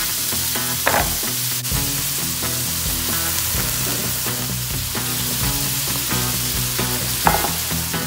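Sturgeon and celery sizzling as they are stir-fried in a hot wok with soy sauce, the spatula scraping the pan about a second in and again near the end. Background music plays underneath.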